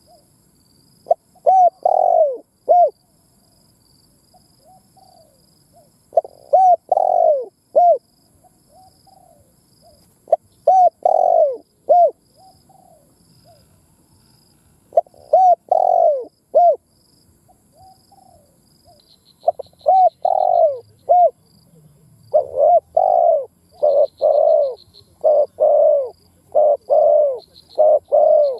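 Spotted dove cooing: short groups of a few descending coos come about every four to five seconds, then near the end the coos follow one another in a faster, unbroken run. Faint high chirping sounds in the background.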